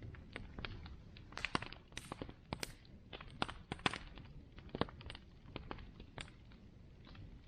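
Bonfire burning: wood crackling and popping in irregular sharp snaps over a low rumble of flame, with a busy cluster of pops about one and a half to four seconds in.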